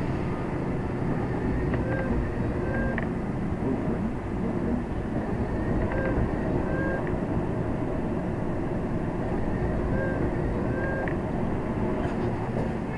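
Steady low engine and road rumble of a lorry heard from inside its cab, with short high beeps recurring every second or few.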